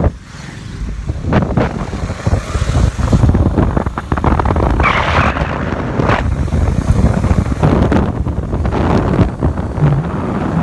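Wind buffeting the microphone of a moving motorcycle, gusting unevenly, with the vehicle's running noise underneath.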